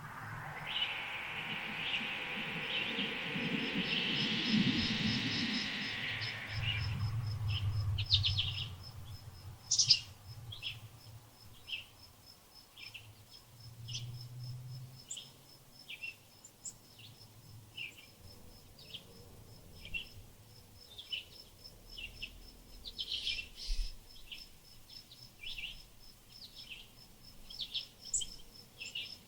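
Small birds chirping in short, high calls about once a second, over a steady high pulsing trill like a cricket. For the first six seconds or so a loud rushing noise covers everything.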